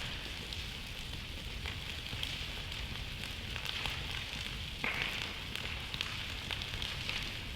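Campfire burning with a steady hiss and scattered crackles and pops, the hiss flaring up suddenly a little before the end.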